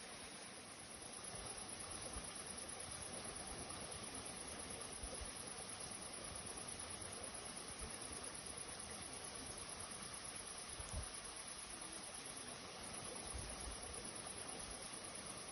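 Crickets singing in a steady, unbroken high trill over a soft even hiss, with a single soft knock about eleven seconds in.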